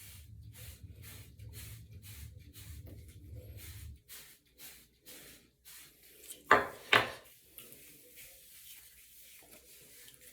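Wave brush bristles scrubbing over soap-lathered hair in quick repeated strokes, about three a second. Two much louder scuffs come close together a little past the middle.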